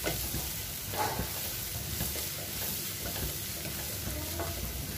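Crushed onion, dried chillies and curry leaves sizzling steadily in coconut oil in a non-stick kadai while a wooden spatula stirs, with a few scrapes against the pan. The onion masala is being sautéed until it browns.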